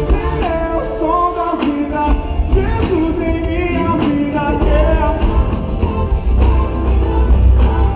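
Live band playing an upbeat rock song with a lead vocalist singing over drums, bass and guitar.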